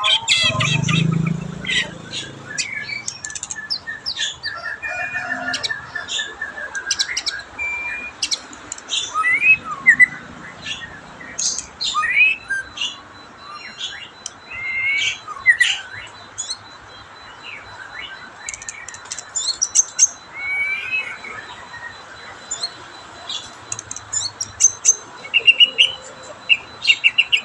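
White-rumped shama (murai batu) singing a varied song of whistled phrases, glides, chirps and quick clicks, broken by short pauses; the bird's condition is improving after a spell of 'trouble'.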